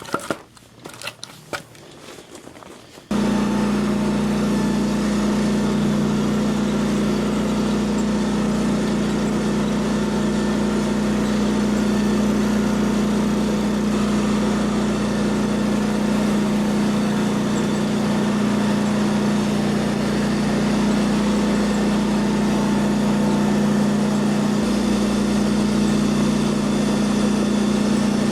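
An engine idling at a steady pitch, starting abruptly about three seconds in after a few faint knocks.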